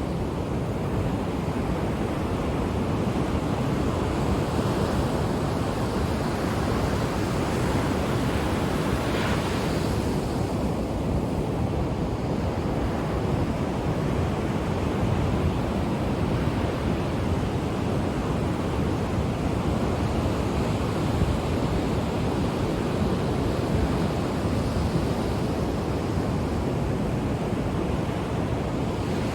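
Ocean waves breaking and washing on the shore in a steady, continuous rush, with slow swells in level and some wind on the microphone.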